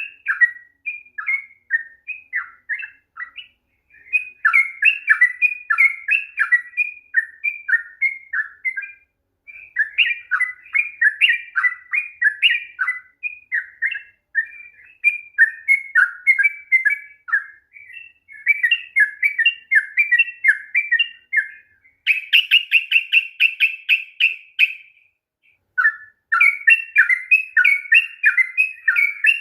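Yellow-vented bulbul (trucukan) singing long, rapid runs of bubbly, warbling phrases almost without a break. About three-quarters of the way through comes a fast, even trill, then a brief pause before the song resumes.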